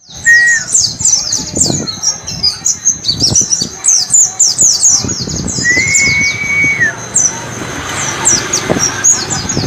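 White-eye (pleci) singing a fast, continuous string of high, downward-flicking twitters in the 'ngalas' style, with a long level whistle about halfway through.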